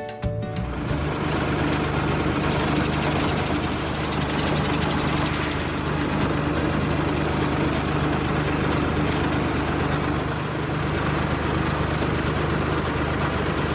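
Tractor engine running steadily at a constant speed, with an even hiss over it.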